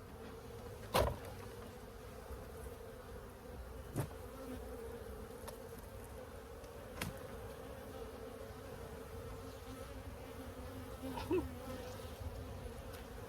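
Many honey bees buzzing together in a steady hum around a colony being removed from its hive. A few short, sharp clicks sound about a second, four seconds and seven seconds in.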